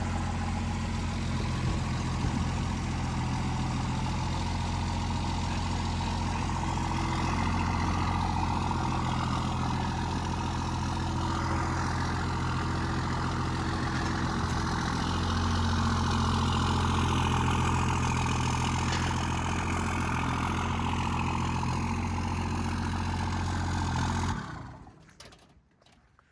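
A truck engine running steadily while pulling a dead truck off a trailer, its pitch shifting slightly a few times. It starts suddenly and cuts off about two seconds before the end.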